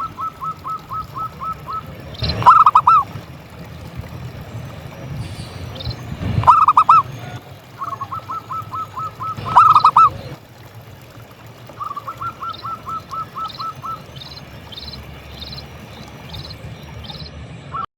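Zebra doves (perkutut) cooing: runs of quick, short, evenly repeated notes, with louder bursts of hooked notes about two and a half, six and a half, and ten seconds in.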